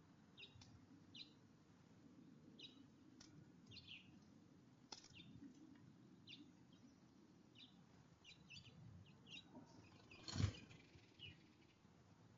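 Faint short, high chirps from small birds at a feeder, repeating irregularly, with a single louder thump near the end.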